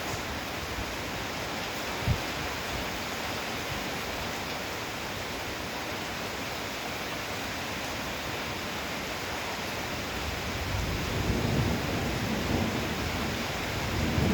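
Heavy rain falling steadily in a thunderstorm, with one short knock about two seconds in and a low rumble of thunder building near the end.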